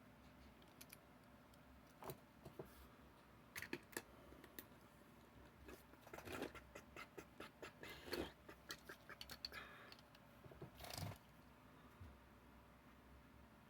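Faint, scattered clicks and light rustling as small diecast toy trucks and their plastic display cases are handled, busiest from about two seconds in until about eleven seconds in.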